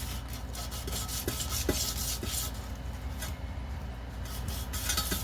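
Sanding on a wheel rim: rough abrasive scraping in uneven strokes. The scraping eases off about three seconds in and picks up again near the end.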